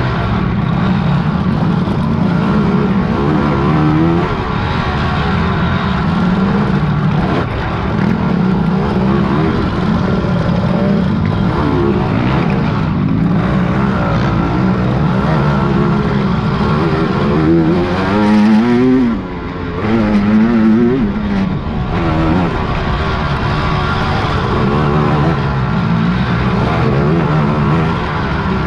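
Racing quad (ATV) engine running hard, its pitch rising and falling with the throttle, with a sharp rev up and back down about two-thirds of the way through.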